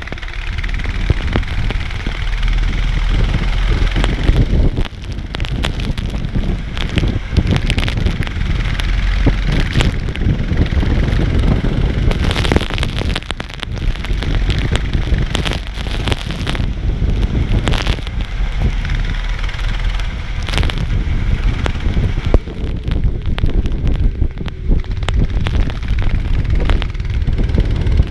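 Go-kart running at racing speed, heard from an onboard camera: heavy wind buffeting on the microphone over the engine, with frequent short knocks and rattles.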